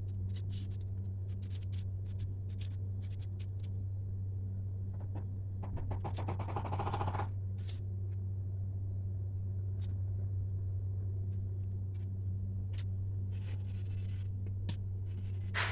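Craft paper being handled: scattered small clicks and scrapes, with a longer rustle about six to seven seconds in, over a steady low electrical hum.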